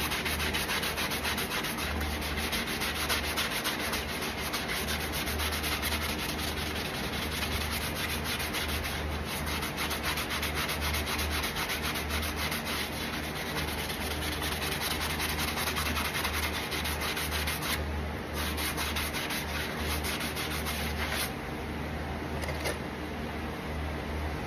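Steady abrasive rubbing on a horse's hoof wall, a farrier smoothing and finishing the hoof after shoeing, easing off in the last few seconds.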